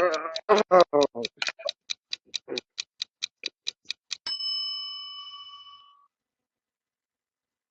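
Clock-like ticking countdown sound effect, about five ticks a second, ending a little over four seconds in with a bell ding that rings out for under two seconds.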